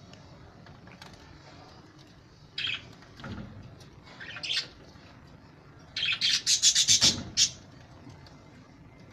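Birds chirping and squawking in short bursts: a brief call a couple of seconds in, another about halfway, then a loud rapid series of chirps about six seconds in.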